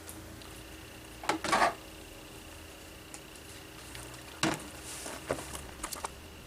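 Hard objects being handled and set down: a few sharp knocks and a short clatter, the loudest about a second and a half in, with lighter clicks and knocks later on.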